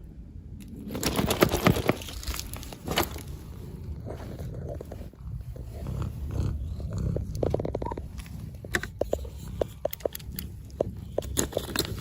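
Crinkling and clicking of hands handling plastic toy packaging, with a louder stretch of rustling about a second in.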